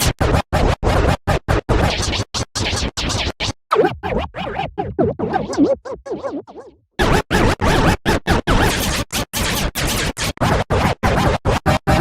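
Digitally edited music chopped into rapid stutters that cut in and out several times a second, with a record-scratch-like sound. It drops out briefly to silence a little past the middle.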